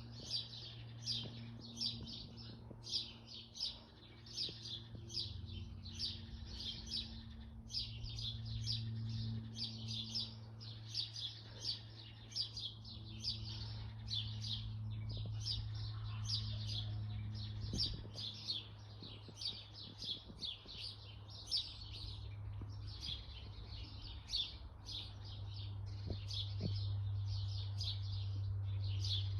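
Small garden birds chirping over and over, a few short high chirps a second without a break, over a steady low hum.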